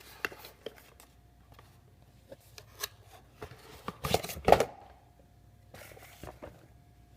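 Handling noise from a silicone microwave popcorn popper being turned over and shown: scattered light taps, rubs and scrapes, with a louder cluster of knocks and rubbing about four seconds in.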